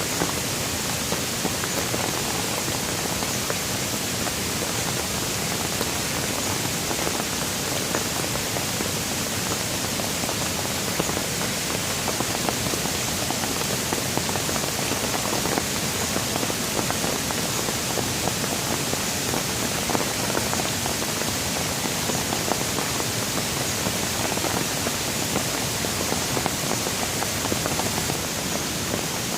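Steady rain falling, an even dense hiss with many small drop ticks scattered through it.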